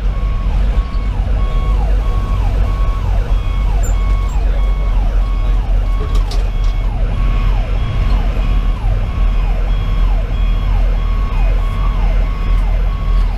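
Electronic siren sounding a rapidly repeating falling tone, with a steady tone pulsing on and off alongside it, over the low drone of a fire engine's diesel and road noise inside the cab.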